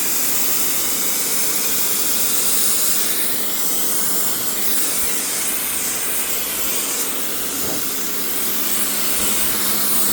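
Small pressure washer spraying water onto concrete: a steady hiss of the jet, with a low steady hum underneath.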